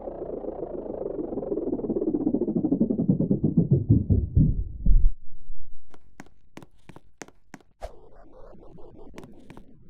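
Washing machine drum spinning down at the end of a spin: a rhythmic whir that falls in pitch and slows until it stops about five seconds in. About eight sharp clicks follow near the end.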